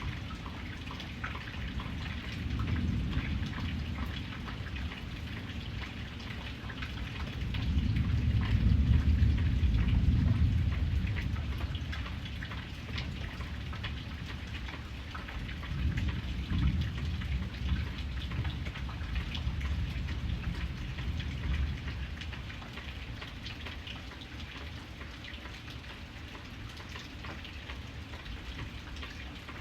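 Steady rain with many individual drops pattering. Low thunder rumbles swell in about a quarter of the way through, the loudest moment, and again just past halfway.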